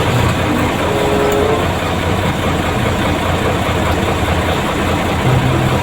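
A truck's engine running steadily, heard from inside the cab as a constant low hum and rumble.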